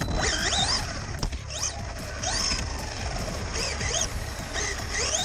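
Electric RC car motor whining up in short bursts, about one a second, as the throttle is blipped, over low rumbling noise.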